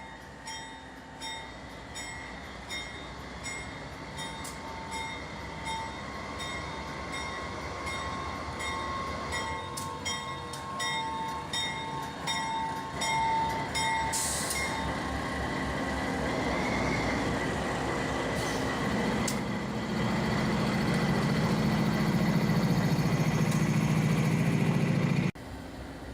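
A freight train of steel-slab wagons pulling away: rail and wagon noise grows steadily louder, with a rhythmic ringing about one and a half times a second for the first half that then stops. Near the end a locomotive's diesel engine drone is loudest, before the sound cuts off suddenly.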